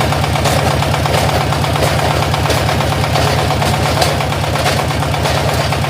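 Diesel engine of a portable hydraulic water well drilling rig running steadily, with a rapid, even chugging beat of about ten to twelve pulses a second.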